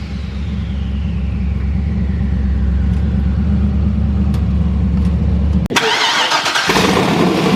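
Twin-turbo Camaro engine idling with a steady low rumble, under a faint whine that falls slowly in pitch. Near the end a sharp click, and the rumble gives way to a rushing noise.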